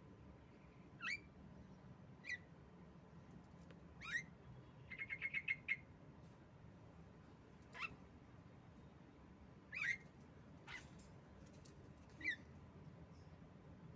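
Female Javan myna giving short, sharp single calls every second or two, with a quick rattle of about ten clicks around five seconds in, over a faint low hum.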